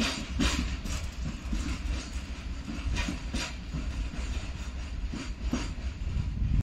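Freight train's loaded wagons rolling past: a steady low rumble with sharp wheel clacks over the rail joints every second or so, some in quick pairs.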